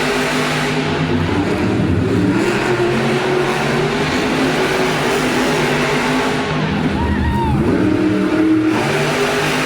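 Monster truck engines running loud and revving, rising and falling in pitch as the trucks race.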